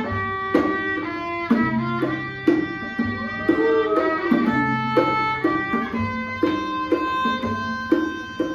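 A small live band plays an instrumental interlude of a worship song. A held, pitched melody line rides over low bass notes and a steady strummed or struck beat.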